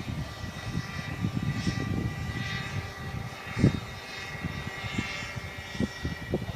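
23cc Zenoah two-stroke petrol engine of a Vario Benzin Trainer model helicopter running at a steady pitch in flight, with strong wind buffeting the microphone in gusts.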